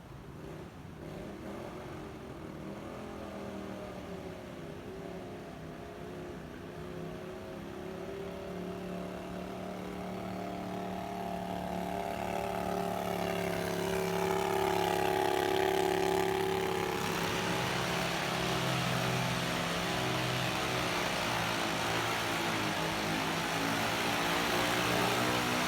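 Pulling tractor's engine running hard under load, growing steadily louder as it comes closer. About two-thirds of the way in, a broad rushing noise joins the engine and stays to the end.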